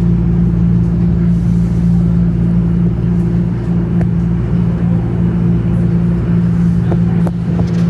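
Toronto Rocket subway train running between stations, heard from inside the car: a loud, steady rumble with a low, even motor hum, and a few sharp clicks near the end.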